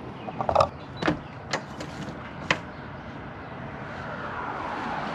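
Several sharp clicks and knocks around a car, then a steady rush of noise that slowly grows louder.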